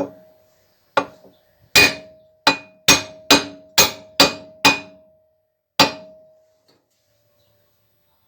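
Hammer blows on metal: about ten sharp strikes over some six seconds, coming faster in the middle, each leaving a short metallic ring.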